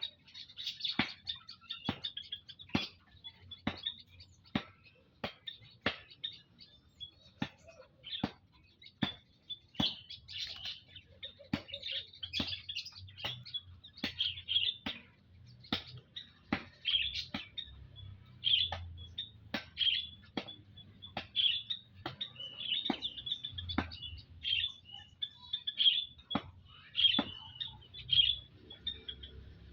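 Olive-backed tailorbirds calling: short sharp notes about once or twice a second, mixed with quicker bursts of high chirping.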